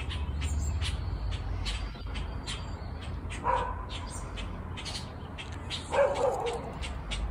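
Birds chirping rapidly and high around the tree, with two louder, lower calls, one about halfway through and one near the end.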